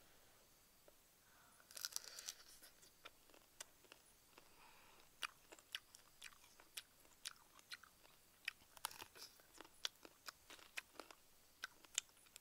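Someone biting into and chewing a crisp roasted beetle: a burst of crunching about two seconds in, then a run of sharp crunchy clicks, roughly two a second.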